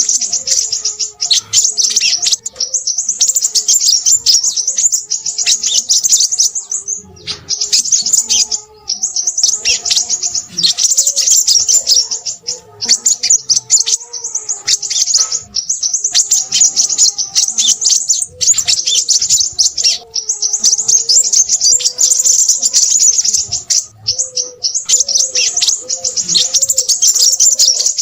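Crimson sunbird singing a very high-pitched, rapid chattering song in long runs broken by short pauses, with a fainter, lower wavering whistle beneath.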